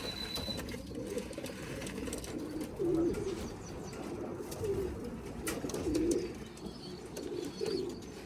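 Racing pigeons cooing, a run of low, repeated coos.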